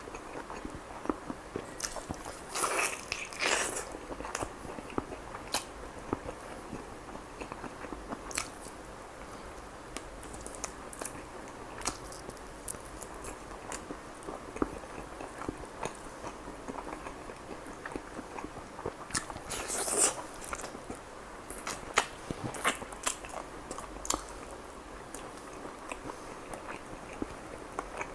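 Close-miked eating of chicken kebab: chewing with wet mouth clicks and smacks, and two louder spells of biting and crunching, about three seconds in and again near twenty seconds.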